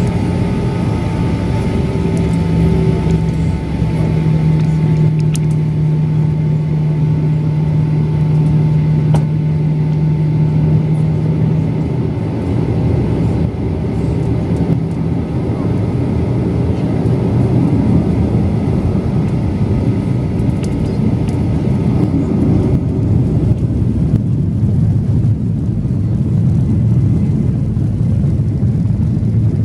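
Boeing 737-800's CFM56 jet engines running, heard from a window seat inside the cabin: a loud steady rumble with steady hum tones that fade out about halfway through.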